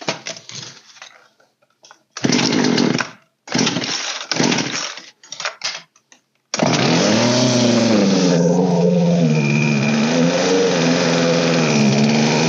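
Old Poulan chainsaw's two-stroke engine pull-started: three short pulls of the starter cord, then it catches a little over six seconds in and runs with a speed that wavers up and down. The carburetor has just been reset, and the owner judges the idle set too low.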